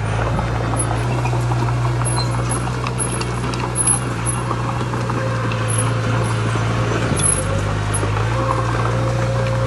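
Heavy diesel engine of earthmoving machinery working, its pitch stepping up and down a few times as the load changes, with scattered knocks and a louder clank about four seconds in.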